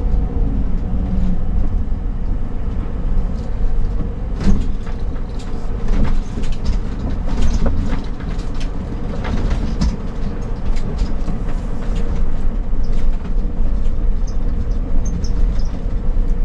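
RV driving on a rough road, heard from inside: a steady low engine and road rumble with frequent rattles and knocks from the vehicle and its contents.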